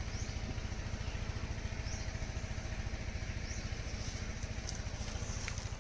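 A small engine idling steadily, with a fast, even low pulse. Faint short high chirps come about every second and a half.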